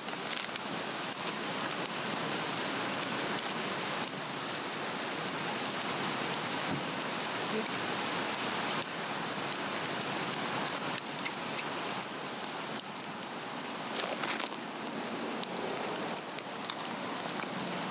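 Swedish torch log fire burning, a steady hissing rush with scattered small crackles.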